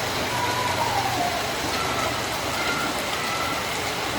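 Steady hiss of heavy rain, with a low engine-like hum that fades out about a second in and a few faint short whistling tones.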